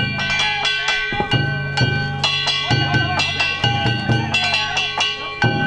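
Danjiri float music: a large taiko drum beaten about twice a second under the steady ringing of kane gongs.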